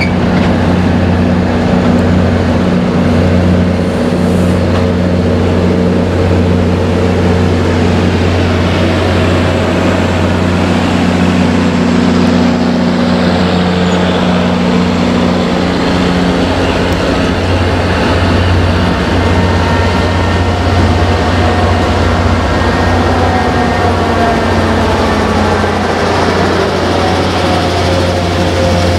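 MBTA passenger train passing slowly at close range: diesel locomotive engines running with a steady low drone, and coaches rolling over the rails. Faint gliding squeals come in during the second half.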